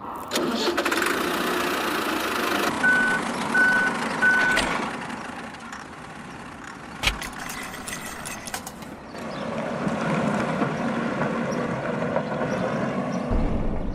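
Truck reversing alarm giving three short, even beeps, roughly 0.7 s apart, over the steady running sound of a mini truck's engine.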